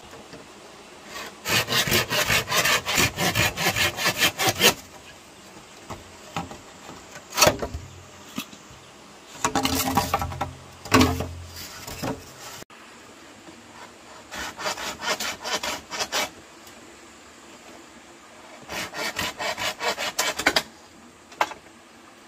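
Rapid rasping strokes on wood, about four or five a second, in four runs of a couple of seconds each, with a single sharp knock between runs.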